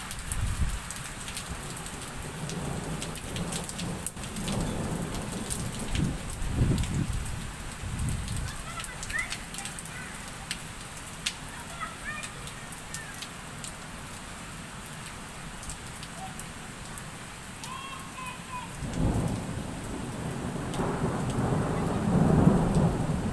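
Thunderstorm: steady rain with many sharp ticks of drops striking, and low rumbles of thunder around five seconds in and again, louder, near the end.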